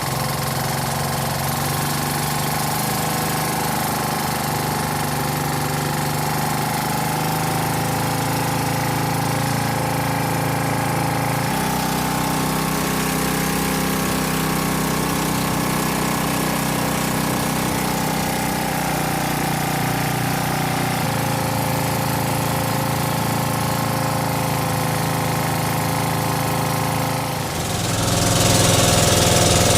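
Small boat engine running steadily, its note shifting slightly a couple of times, then growing louder near the end.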